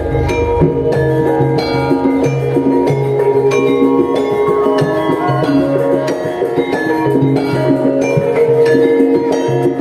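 Javanese gamelan music for a horse-dance troupe: bronze metallophones and gongs ring out dense interlocking struck notes over a steady low tone, with drum strokes keeping the rhythm, played loud through a sound system.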